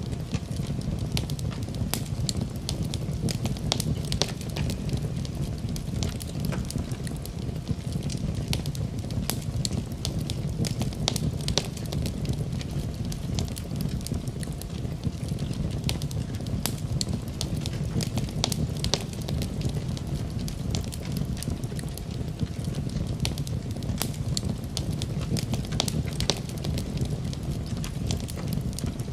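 Wood fire burning in a fireplace: a steady low rush of flames with frequent sharp crackles and pops of the burning logs.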